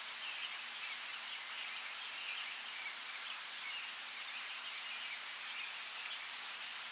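Steady rain hiss with small birds chirping repeatedly over it, and one sharp drip or drop click about three and a half seconds in.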